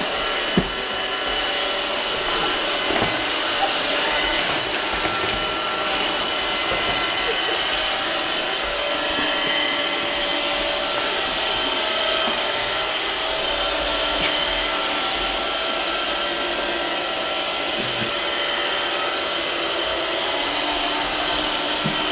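Roomba robot vacuum running: a steady motor and brush noise with several steady high whining tones, and one sharp knock about half a second in.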